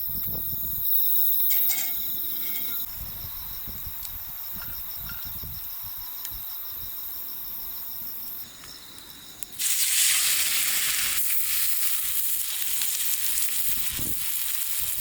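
Steak frying with a loud, steady sizzle that starts suddenly about ten seconds in. Before it, insects chirp in a steady pulsing trill.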